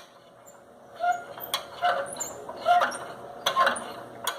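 Honda Bros 150 rear brake rod squeaking as it moves with the swingarm, a short squeak with a click about once a second. The squeak persists despite the swingarm and shock bushings having been greased, and is the sign of the rod's own pivot and springs needing cleaning and grease.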